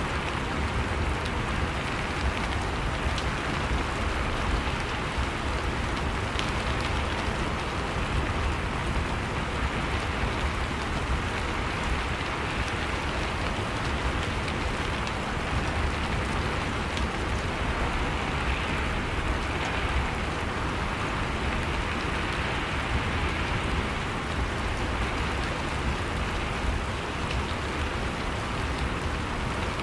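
Steady rain falling, an even hiss with a constant low rumble underneath and scattered faint drop ticks.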